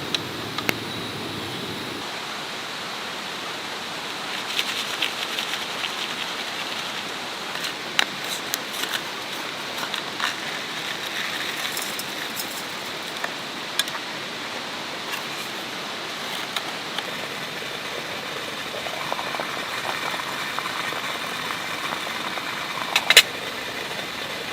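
Wood fire crackling: a steady hiss with scattered sharp pops and clicks, two louder pops near the end.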